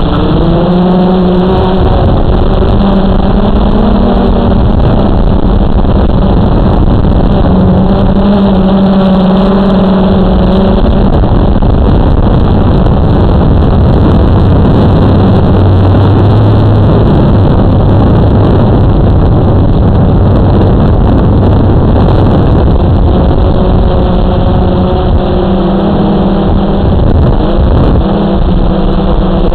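Blade 350 QX2 quadcopter's motors and propellers buzzing in flight, the pitch shifting as the throttle changes: lower through the middle, rising again near the end. Steady wind rush on the microphone runs underneath.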